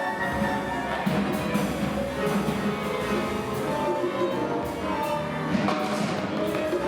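Live acoustic ensemble playing a free improvisation: many pitched instruments sounding together, with drum and percussion strikes throughout.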